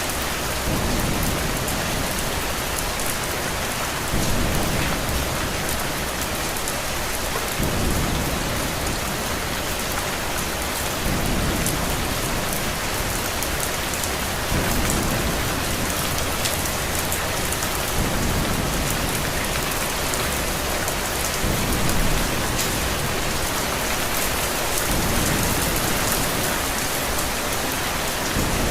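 Steady rain falling, with a low thunder rumble that swells and fades every three to four seconds.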